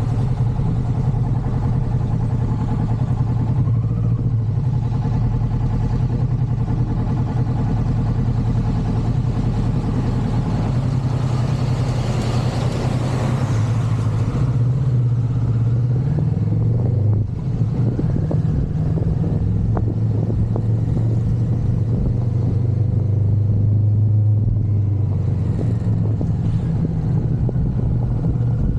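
Motorcycle engine running steadily while riding. A rush of noise swells and fades around the middle, and the engine sound dips briefly about two-thirds of the way through.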